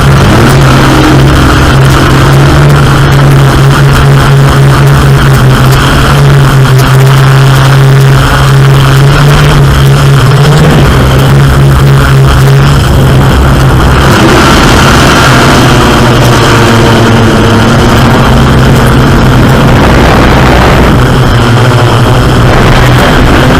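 Racing airboats, aircraft engines driving open propellers, running hard: a loud, steady drone whose pitch shifts about ten seconds in and again around fourteen seconds.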